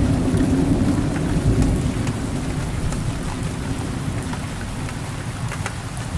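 Rain falling steadily with scattered drop ticks, under a low rumble of thunder that slowly dies away.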